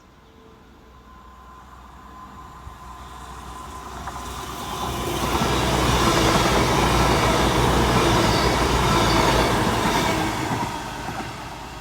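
CrossCountry Class 221 Voyager diesel multiple unit passing through at a steady pace. Its sound builds over about five seconds, stays loudest for about four seconds, then dies away near the end.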